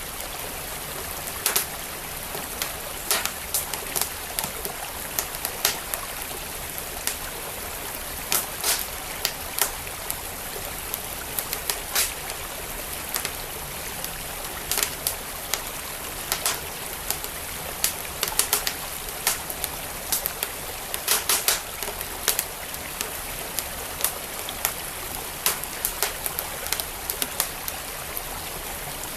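Wood fire crackling with sharp, irregular pops and snaps, some in quick clusters, over the steady rush of a flowing stream.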